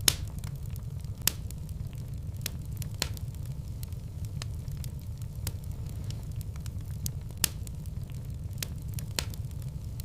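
Wood fire in a fireplace crackling: irregular sharp pops and snaps over a steady low rumble of the flames, with a few louder pops, the first right at the start and another just over a second in.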